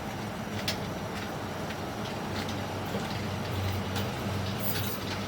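A motor running steadily with a low hum, with a few faint light clicks.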